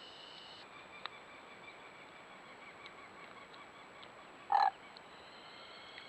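A single short, loud animal call about four and a half seconds in, over a steady high-pitched chorus of calling frogs or insects at a pond.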